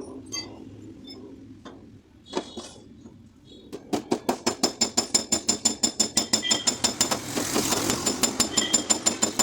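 Rapid, even light hammer taps on car door sheet metal, about seven or eight a second with a metallic ring, starting about four seconds in after a few scattered clicks: paintless dent repair tapping on the panel.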